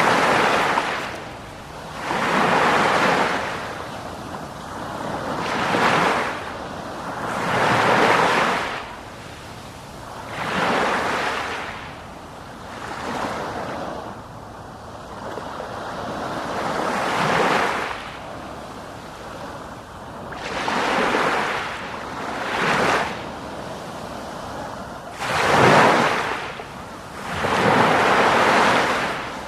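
Ocean waves breaking. Rushing surf swells and dies away about every two to three seconds.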